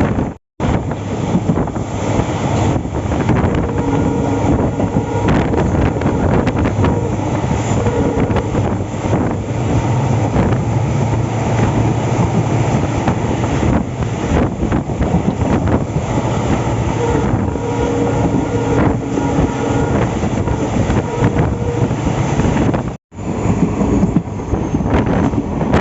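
Passenger train running, heard from aboard the coach: a steady rumble and rattle of the coach on the track, with wind buffeting the microphone. The sound cuts out abruptly twice, just after the start and near the end.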